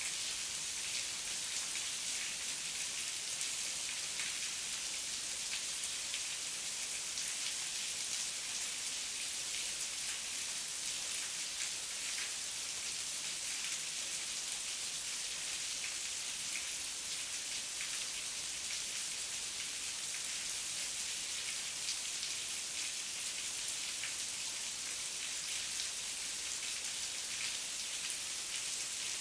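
Heavy rain falling steadily: an even, bright hiss made of countless small drop ticks, with no thunder.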